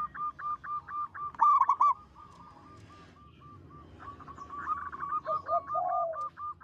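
Zebra dove (perkutut) singing: fast runs of short, repeated cooing notes, about six a second. The song pauses for a couple of seconds and starts again, and a few lower, longer falling coos come near the end.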